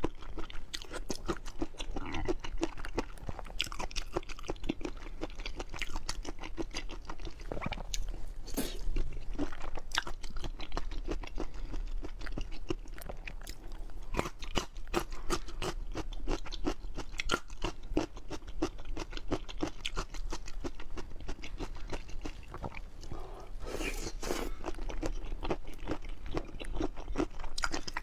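Close-miked chewing of a mouthful of spicy skewered shrimp: a dense run of small crunches and wet mouth clicks, with louder spells about eight seconds in and again near the end.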